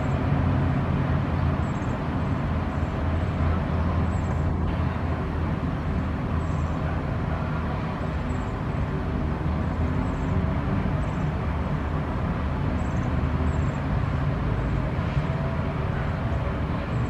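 Steady city traffic rumble, with American bushtits giving many short, high, thin calls scattered throughout.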